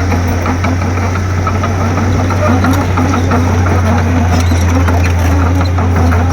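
Komatsu D31P bulldozer's diesel engine running steadily under a constant low hum, with scattered light clicks and rattles.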